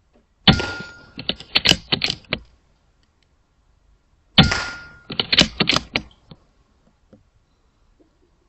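Two shots from a .22 Airmaks Krait L air rifle about four seconds apart, each a sharp crack with a short hiss. Each shot is followed by a quick run of metallic clicks as the rifle is recocked and the next pellet loaded.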